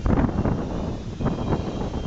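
Passenger train rolling slowly past with a low rumble, mixed with irregular gusts of wind buffeting the microphone.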